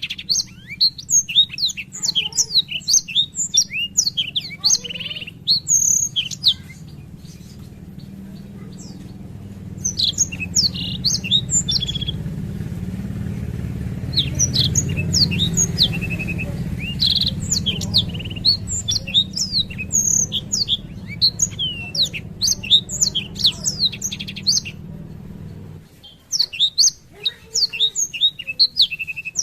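Blackthroat (yellow-rumped seedeater) singing a long, fast rolling song of rapid high chirps and trills in extended phrases with brief pauses. A low steady rumble runs underneath and stops near the end.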